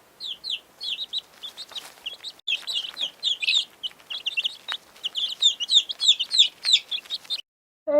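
Domestic chicks peeping: a rapid stream of short, high, downward-sliding peeps from several birds, growing denser, then stopping abruptly near the end.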